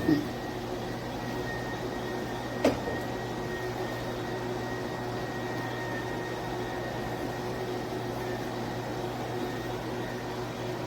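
Cordless dual-motor electric spin mop running steadily: a motor hum with a thin high whine. Two short knocks, one right at the start and one about three seconds in.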